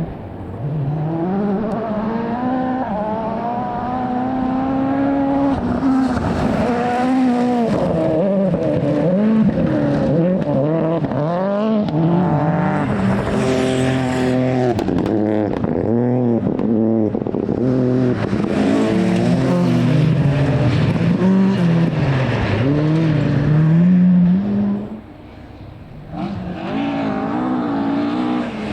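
Rally car engine worked hard through a corner: revs climbing and falling again and again as it changes gear and brakes. About 25 seconds in it drops away briefly, then an engine picks up again near the end.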